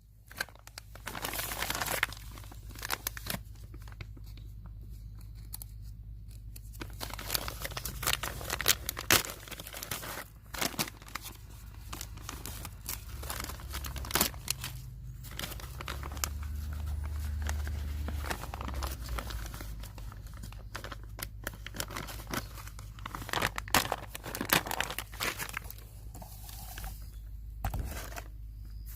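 Irregular crinkling, rustling and sharp clicking of close handling noise, with a faint low hum beneath that swells briefly partway through.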